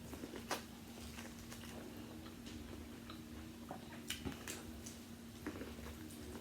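Eating seafood close to the microphone: a few scattered sharp clicks and crackles of shells being broken and picked at, with a cluster about four seconds in, over a steady low hum.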